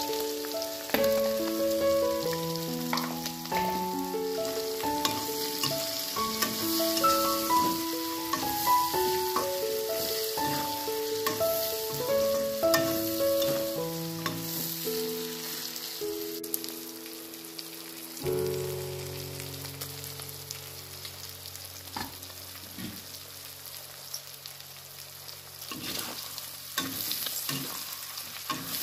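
Pork pieces sizzling in hot oil in a steel kadai, stirred with a metal spatula that clicks and scrapes against the pan, loudest in the last few seconds. Instrumental background music plays a simple stepped melody, turning to long held low notes about two thirds of the way through.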